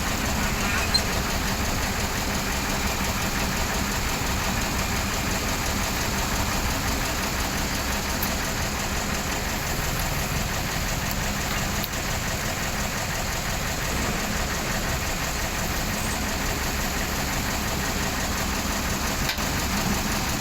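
Excavator's diesel engine running steadily at an even level.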